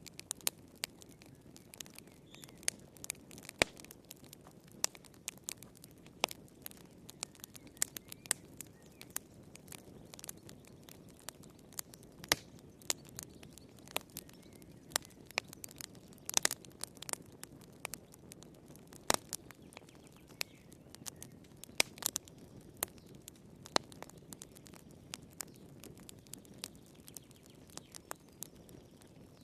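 Wood fire crackling in a fireplace: irregular sharp pops and snaps over a soft low hiss.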